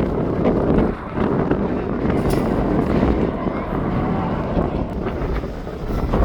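Wind buffeting the microphone, a steady low rumbling noise with a short dip about a second in.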